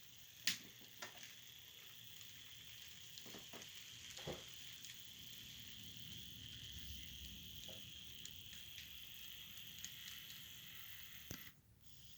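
Faint, steady whir of small N scale model locomotive motors running on the track, with a few light clicks.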